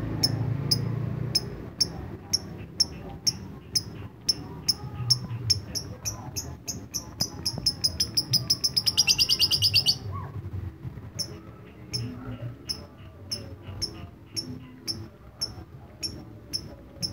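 Lovebird singing: short, sharp chirps about two a second in the 'ngetik' (typing) style, speeding up about seven seconds in into a fast trill, a 'ngekek' burst, that cuts off suddenly about ten seconds in before the single chirps resume.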